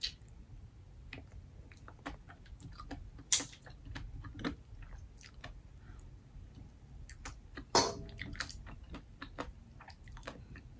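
Close-up eating sounds of a person chewing steamed black mussels, with many small clicks and mouth sounds and two louder sharp clacks about three and eight seconds in.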